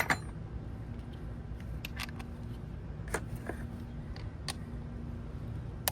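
Scattered light clicks and taps of hand tools and sockets being handled, about five separate knocks, over a faint steady low hum.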